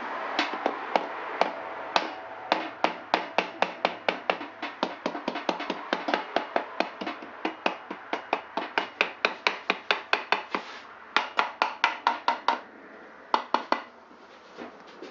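Rapid, steady taps of a plastic-faced hammer on a Honda SL125 engine's side cover, about three to four blows a second with a couple of short pauses, knocking the stuck cover loose from the crankcase.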